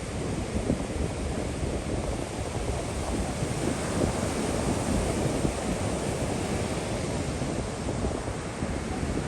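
Ocean surf washing onto the beach, with wind buffeting the microphone in a steady, fluttering low rumble.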